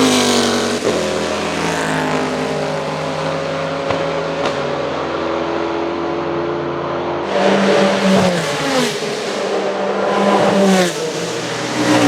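Racing car engines running at speed, more than one at once. About seven seconds in, a louder engine comes close and revs hard, its pitch dropping twice as it changes gear.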